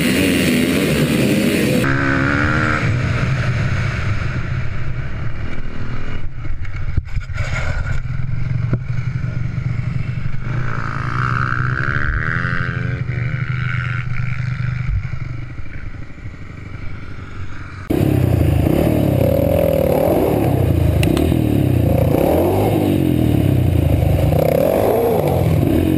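Dirt bike engines running and revving up and down, the pitch rising and falling. The sound changes abruptly about two seconds in and again near the end as one riding clip gives way to another.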